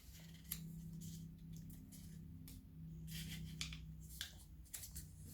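Sheet of paper being folded and creased by hand, with faint scattered rustles and crinkles over a low steady hum.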